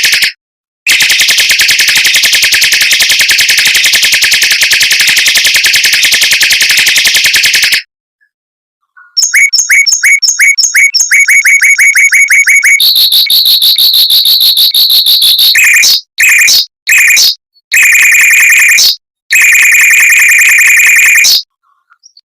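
Mockingbird song made of long, very fast trills of tightly repeated notes. A single trill runs for about seven seconds and is followed by a pause of about a second. After that comes a string of shorter trilled phrases at changing pitches, each of which starts and stops abruptly.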